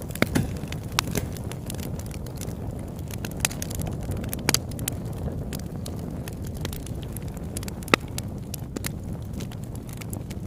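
Campfire burning: a steady low rumble with scattered sharp crackles and pops, the loudest pop about eight seconds in.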